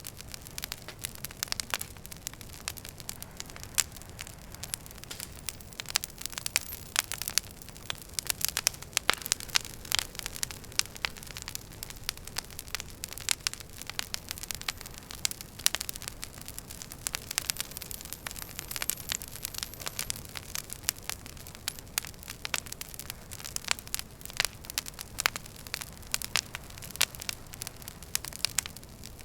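Wood fire in a fireplace crackling: dense, irregular sharp pops and snaps of burning logs over a low steady rumble of flames. A faint high whistle slides down in pitch about two-thirds of the way through.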